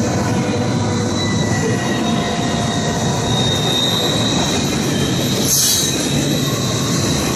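Norfolk Southern freight cars rolling past close by: a steady rumble of steel wheels on the rails with a thin, high wheel squeal over it, and a short sharp high hiss a little past halfway.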